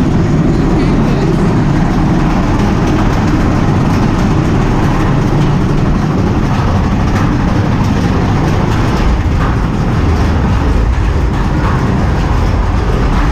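Big Thunder Mountain Railroad mine-train roller coaster running on its track at speed, a loud, steady rumble.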